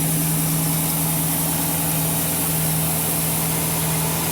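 Carbureted V8 inboard engine of a 1987 Sea Ray boat idling with a steady, even hum; it is quiet and running well.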